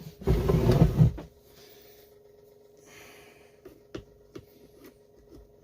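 Handling noise while fitting a small part onto a STIHL 026 chainsaw: a loud rustling scrape in the first second, then several sharp small clicks of parts being pushed into place over a steady hum.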